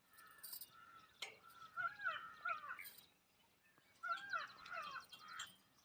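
A bird calling in two short bouts of quick rising-and-falling notes, faint against the forest background.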